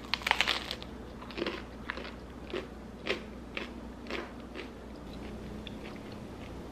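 A bite into the crunchy crust of a piece of freshly baked no-knead focaccia, a quick cluster of crunches, then crunchy chewing about twice a second that dies away about five seconds in.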